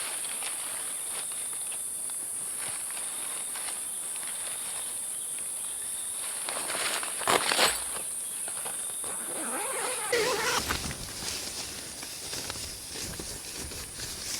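A steady high-pitched insect chorus, with brief rustling and knocking noises about seven seconds in and again around ten seconds in.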